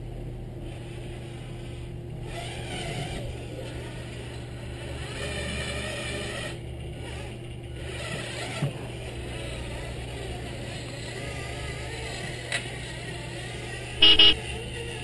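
Radio-controlled 1/14 scale Scania truck running with a steady engine hum, with a few small clicks and a short, loud horn blast near the end.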